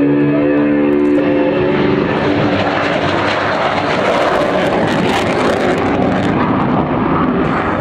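Military fighter jet passing overhead, the jet engine roar swelling to its loudest about four to five seconds in and easing off slightly afterwards.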